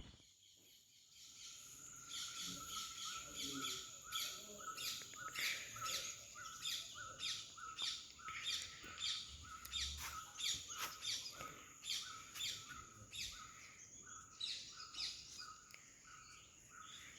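Small birds chirping and calling. Among the quick high chirps, one call note repeats evenly, a little faster than once a second, over a faint steady high whine. The calls start about two seconds in, after a brief silence.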